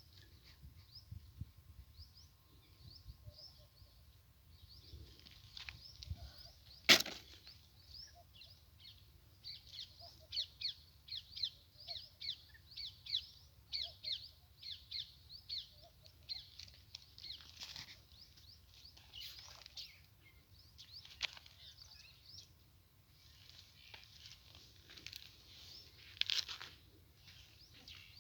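Small birds chirping, short high notes repeated a few times a second in runs, over a faint low rumble. A single sharp click about seven seconds in is the loudest sound.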